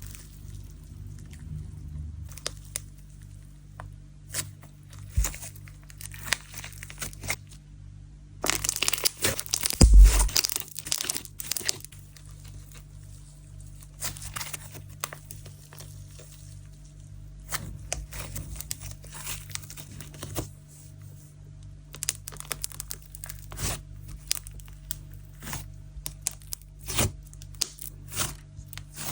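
Sand-texture slime being squeezed and pulled by hand, giving grainy, crackly tearing sounds. A dense, loud run of crackling comes about nine to eleven seconds in.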